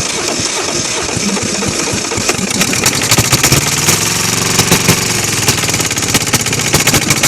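Kohler KD425-2 two-cylinder diesel engine running roughly, with uneven, irregular popping. It picks up briefly around the middle and then sags again, struggling because it is starved of fuel; the owner blames an air leak in the fuel supply.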